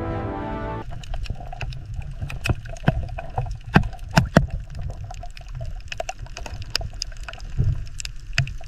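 Water sloshing and splashing, with a low rumble and many irregular sharp clicks and drips; a louder cluster of clicks around the middle. Music cuts off about a second in.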